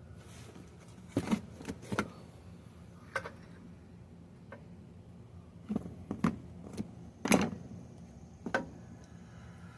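Metal hand tools and parts clinking and clanking against the rear axle housing while the differential carrier bearing caps are taken off: about ten sharp, irregular metallic knocks, some with a brief ring.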